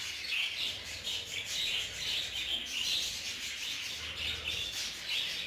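Budgerigars chattering in a cage, a steady run of soft, high chirps and warbles.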